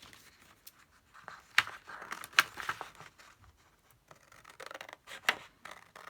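Paper crafting supplies being handled on a desk: soft paper rustling with a few sharp clicks and snips.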